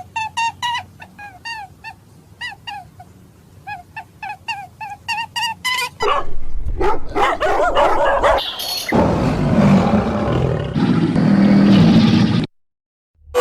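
A dog, likely a puppy, giving a quick run of short high-pitched yips and whimpers. About six seconds in, a louder, rough, noisy animal sound takes over and cuts off shortly before the end.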